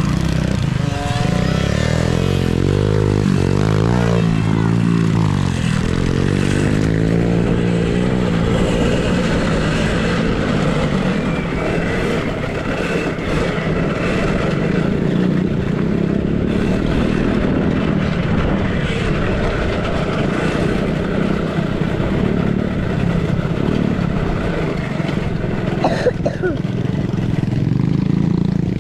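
Mini dirt bikes racing: small motorcycle engines revving up and down over a continuous rush of noise.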